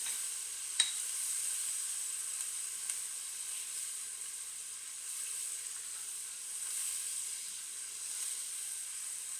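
Chopped onion and bell pepper sizzling steadily in olive oil in a cast iron pot, with a sharp tap against the pot about a second in.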